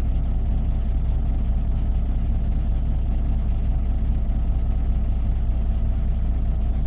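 Semi-truck diesel engine idling: a steady, even low rumble that does not change.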